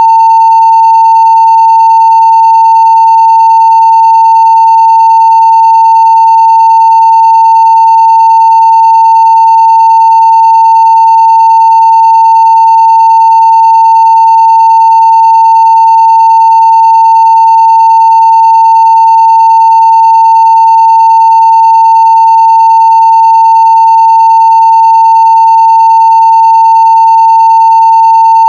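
A 900 Hz sine test tone at full scale (0 dB), one loud steady pitch held without any change, with faint overtones above it.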